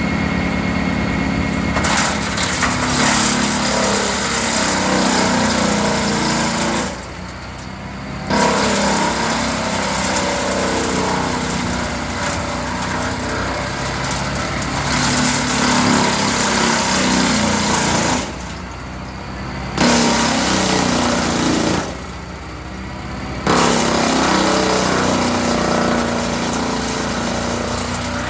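Tractor-driven Linddana TP150 wood chipper running off a Fendt Turbomatik 105S tractor, with steady loud engine and machine noise. The noise drops away briefly three times, for a second or so each.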